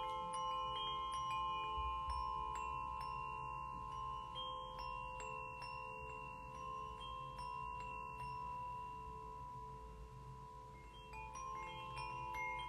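Bells, singing bowls and a steel tongue drum (glucophone) are struck again and again. The overlapping notes ring on and sustain, with clusters of bright high strikes. The strikes thin out and it quietens briefly about two-thirds of the way through, then busy ringing strikes resume near the end.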